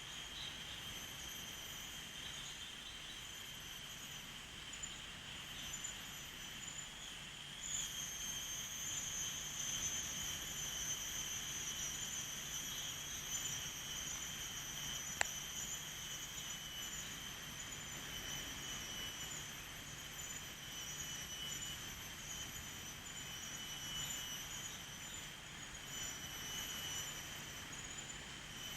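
A steady chorus of shrill insects, several high pitches held together, growing louder about a quarter of the way in. A single sharp click sounds about halfway through.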